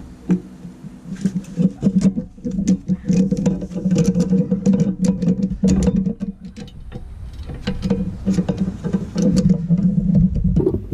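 Rapid, irregular metallic clicking and scraping of hand work on a rear disc-brake caliper, over a steady low hum.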